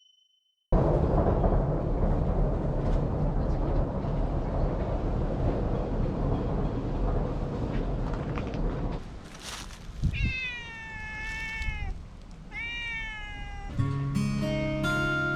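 A cat meowing twice, each meow about a second long and bending in pitch. Before the meows there is a steady low rumbling noise for several seconds, and acoustic guitar music starts near the end.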